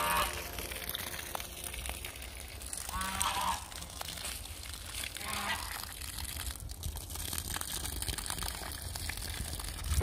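Two short calls from a bird, about two seconds apart, over a low steady rumble.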